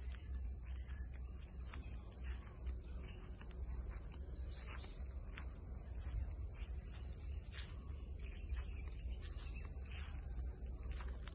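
Tropical rainforest ambience: a steady high-pitched insect drone, with many short bird chirps and calls scattered over it and a low rumble underneath.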